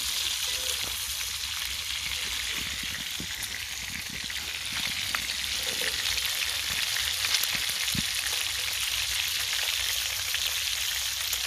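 Cheese-stuffed, bacon-wrapped burgers sizzling steadily in a cast iron pan over a campfire, with scattered small pops and crackles.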